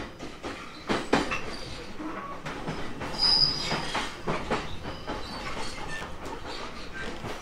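Running sound inside a JR East E721-500 series electric multiple unit in motion: wheels knock irregularly over rail joints, with a brief high wheel squeal about three seconds in.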